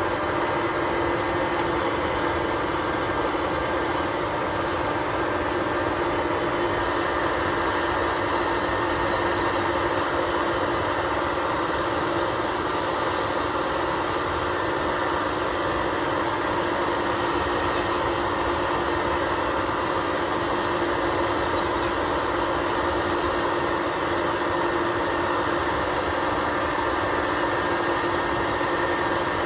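Electric nail drill running steadily with a constant motor whine, with a couple of light ticks about five and seven seconds in.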